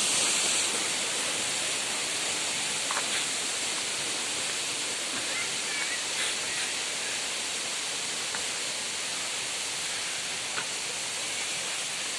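Waterfall: the steady, even rush of falling water, with a few faint clicks.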